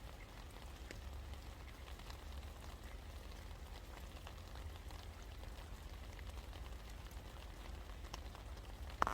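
Steady rain falling, with scattered individual drops ticking over a steady low rumble. One sharp tap comes near the end.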